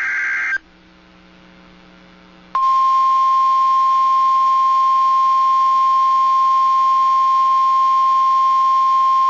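NOAA Weather Radio alert signals: the end of a short warbling SAME data burst, then about two seconds of quiet, then the loud steady 1050 Hz warning alarm tone that announces a new warning.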